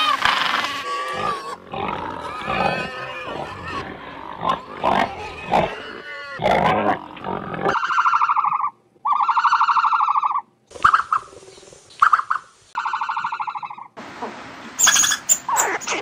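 Magellanic penguins braying over breaking surf. About eight seconds in this gives way to five buzzy, drawn-out animal calls, each about a second long, with short silences between them. Near the end come sharp high squeaks.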